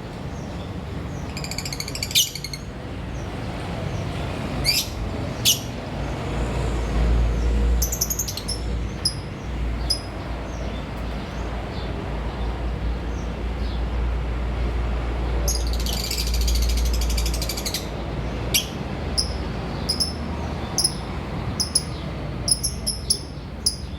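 Lovebirds chirping: many short, sharp, high-pitched chirps scattered irregularly, with two longer rapid chattering bursts, one near the start and one about two-thirds through. A low rumble sits underneath through the middle.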